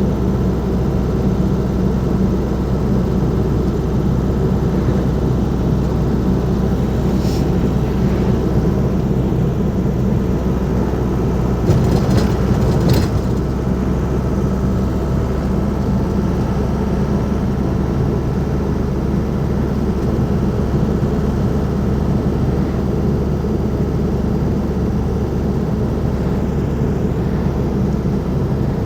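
Ford Transit Mk5's 2.5-litre diesel engine running steadily as the van drives along, with road noise and a few short clicks or knocks near the middle.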